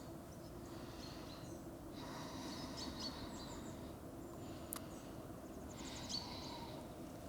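Quiet forest ambience with a few faint, short bird chirps scattered through it.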